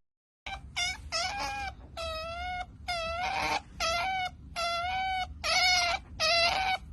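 An animal, likely a pet, giving a series of about ten short, high-pitched calls with a wavering pitch.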